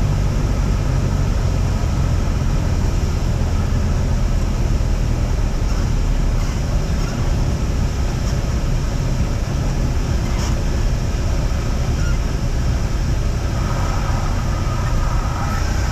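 Cessna 172's piston engine and propeller droning steadily, heard from inside the cabin. A faint steady tone joins near the end.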